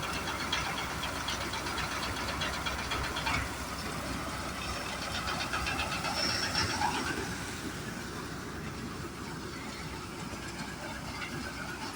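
HMT 5911 diesel tractor running steadily while driving a paddy threshing machine, with a dense rattle of fast ticks over the first three seconds or so.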